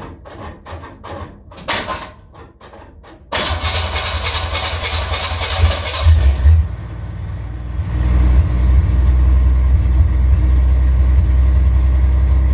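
The 1968 car's V8 is cold-started after sitting a long time. The starter cranks with a steady rhythm for about three seconds before the engine catches, runs loud and revving for a few seconds, dips briefly, then settles into a steady deep idle.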